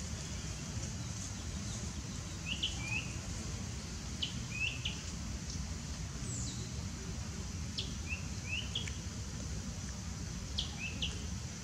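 A bird calling, a short phrase of three or four quick high notes repeated four times, a few seconds apart, over a steady low background rumble.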